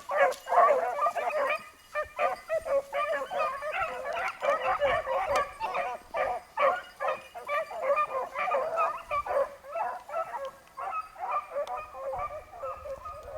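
A pack of beagles baying as they run a rabbit, several dogs giving voice over one another without a break. Loudest in the first couple of seconds, then fading a little toward the end.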